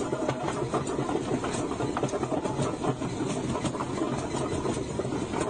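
Heavy truck engine running steadily, with frequent short clicks and rattles over it.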